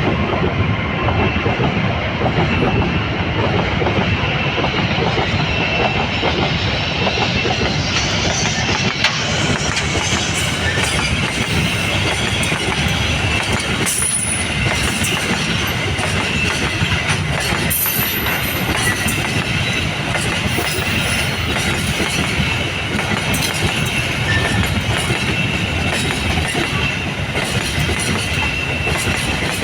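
A long train rolling past close by: the steady rumble and clickety-clack of its wheels on the rail joints, with brief faint high squeals from the wheels now and then.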